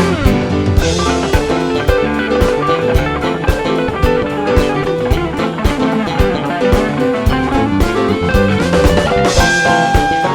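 Electric guitar solo over a live funk band of drums, bass and keyboards, with a steady drum beat; the guitar holds a long high note near the end.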